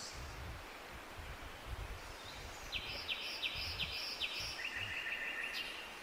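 A songbird sings a phrase of five quick down-slurred notes, then a short buzzy trill, over a steady outdoor hiss with a low rumble.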